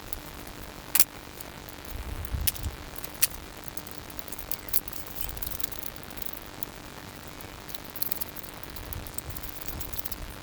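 Scattered sharp clicks and knocks with a few brief low rumbles, over a steady faint hum.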